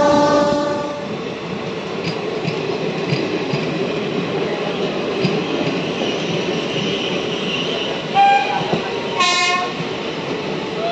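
Train horn sounding a pitched note that cuts off about a second in, followed by the steady rumble and rattle of a train running on the rails. Two short horn toots come near the end.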